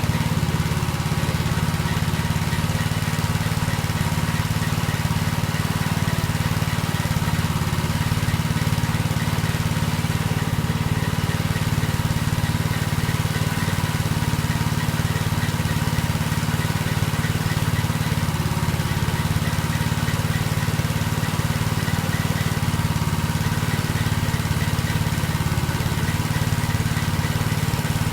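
Small motorcycle engine idling steadily, an even unchanging hum with no revving.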